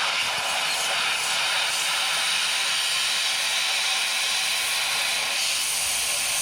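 Hobart 27i plasma cutter cutting through steel plate: a loud, steady hiss of the arc and air jet.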